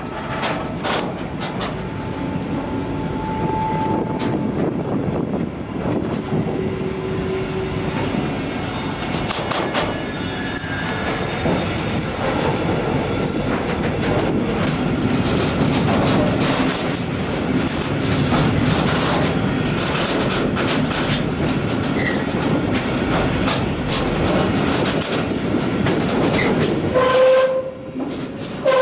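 Freight wagon rolling over the rails, heard from on board: a steady rumble and rattle of wheels and wagon body, with repeated clicks and clatter from the track and a few brief high squeals.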